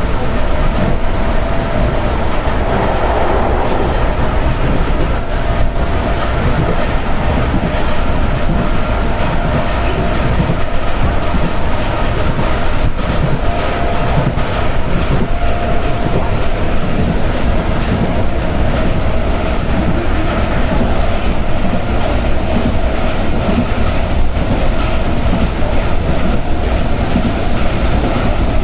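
Passenger train under way, heard from inside the carriage: a steady rumble of wheels on the rails with a faint steady whine over it.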